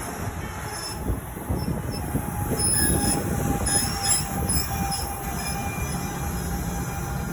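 Commuter train rolling through the station with a steady rumble of wheels on rail, and high-pitched wheel squeal from about two and a half to five seconds in.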